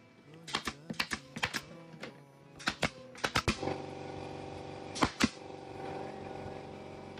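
Hammer driving nails into the bamboo boards of a chicken coop: sharp knocks in quick bursts of a few blows, with pauses between the bursts.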